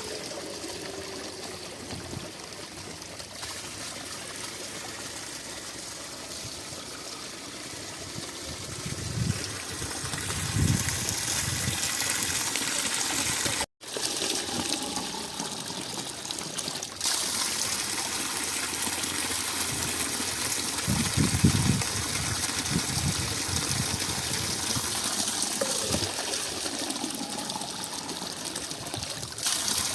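Running spring water, a steady gushing and trickling, with a few low thumps. It breaks off for an instant about halfway through.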